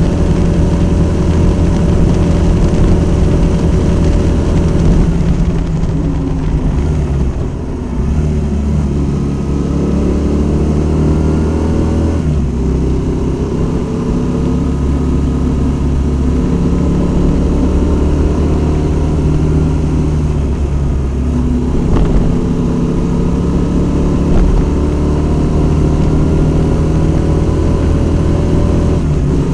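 Honda Varadero 125's small V-twin engine heard on board while riding. Its pitch falls as the bike slows and climbs again as it accelerates, several times over.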